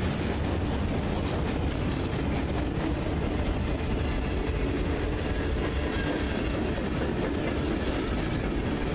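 Freight train rolling past at steady speed: a continuous rumble of steel wheels on the rails.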